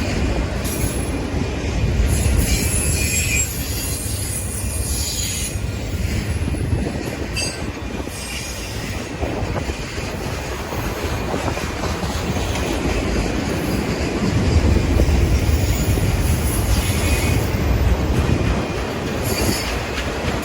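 Freight train cars rolling slowly over tornado-damaged track: a steady low rumble with wheel clacking, and steel wheels squealing in high-pitched spells that come and go.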